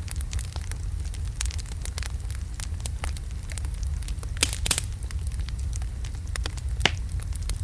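Wood logs burning in a fireplace, crackling with irregular sharp pops over a low steady rumble of the flames, with a quick cluster of pops about four and a half seconds in and a louder single pop near the end.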